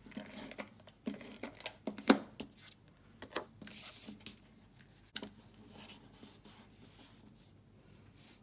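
Paper-crafting handling: a Fast Fuse adhesive applicator laying adhesive onto cardstock, with a few sharp clicks and taps and a short rasping stretch about four seconds in, then quieter rustling.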